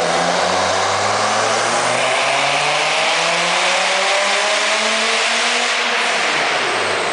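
Twin-turbocharged Dodge Viper V10 on a chassis dyno in a wide-open-throttle pull, engine pitch climbing steadily for about six seconds, then falling as the throttle is lifted and the revs drop.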